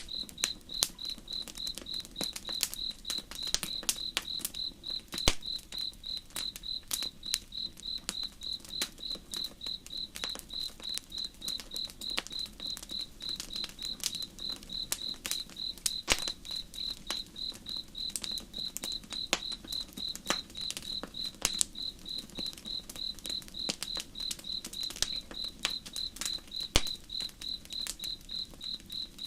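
A cricket chirping in a steady, even rhythm over a campfire crackling with scattered sharp pops, and a faint low steady rush of river water beneath.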